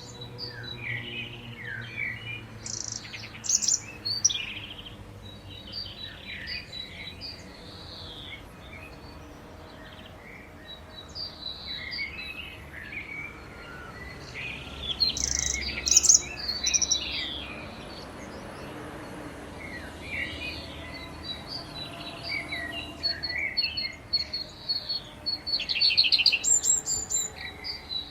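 Songbirds chirping and trilling in repeated bursts. Beneath them, faint steady tones from synthesized civil defense sirens fade away in the distance.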